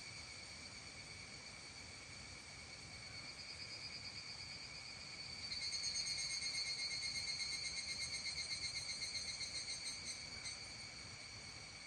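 Insects trilling steadily at a high pitch. About halfway through, a louder, rapidly pulsing trill joins in for around five seconds and then fades out.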